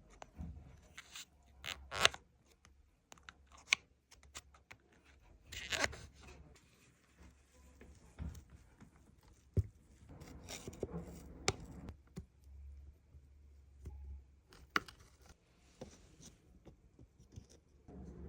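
Scattered small clicks, scrapes and rustles of hands working on a chainsaw's fuel primer bulb; the saw is not running.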